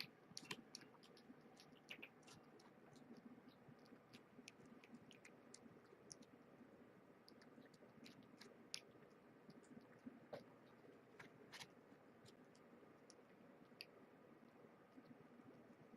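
Cats eating wet food from a bowl: faint, irregular smacking and clicking throughout.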